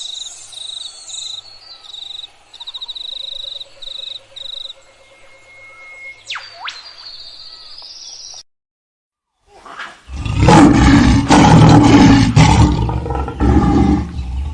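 High, repeated bird trills and chirps, then after a brief silence a loud, low animal roar that runs to the end.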